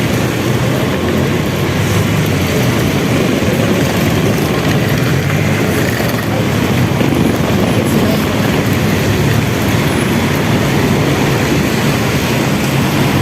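Steady low rumble of a moving vehicle, with an even noise haze over it and no pauses or sudden events.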